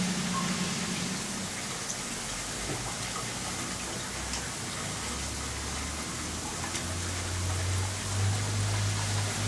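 Heavy wet snow and sleet falling and pattering, an even hiss with a few faint ticks. A low steady hum comes in about halfway through and grows stronger near the end.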